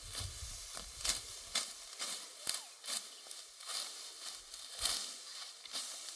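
Irregular dry crackling and rustling, a few sharp snaps a second over a steady hiss.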